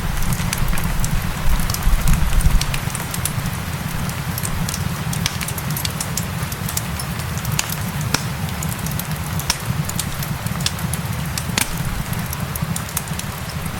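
Fireplace crackling, with many sharp irregular pops and snaps over a steady low rumble, mixed with the even hiss of rain.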